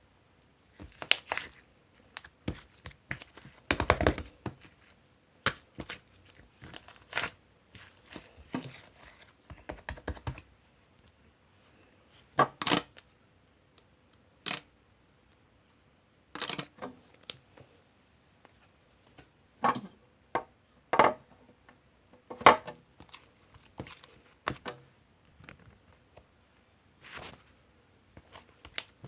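Irregular clicks, crackles and crinkling handling noises in scattered clusters with short quiet gaps, the loudest about four seconds in.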